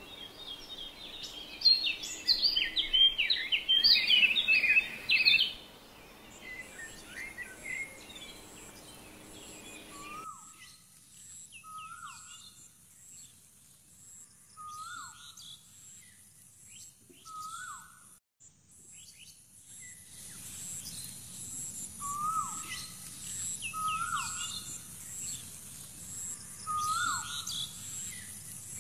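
Birds chirping: busy overlapping twittering for the first few seconds, then one bird repeating a short call that drops in pitch, about every second and a half to two seconds.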